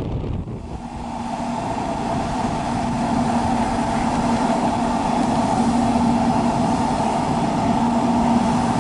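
Electric train running through a station: a steady rolling rumble with a constant two-note hum that starts about half a second in and slowly grows louder.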